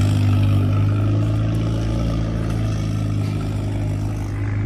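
A car engine running at a steady speed, a deep even hum.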